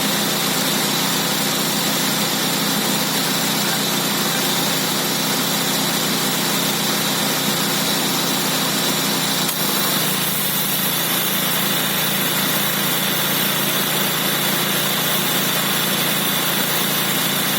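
Calsonic air-conditioning compressor on a Nissan Sentra B14 engine rattling steadily while running, with the engine going. The rattle is the sign of a dying compressor.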